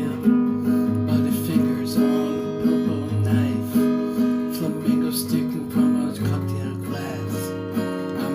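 Music: acoustic guitar strummed and plucked in a steady rhythm, a chord struck about every half second or so.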